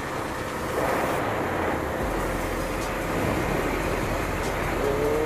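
Motorcycle on the move: engine running under a steady rush of wind and road noise.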